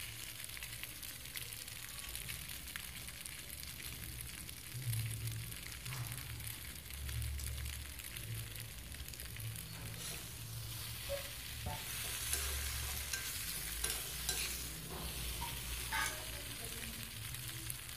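Spiced macaroni sizzling as it fries in a wok, with a spatula stirring it and scraping against the pan, the scrapes coming more often in the second half.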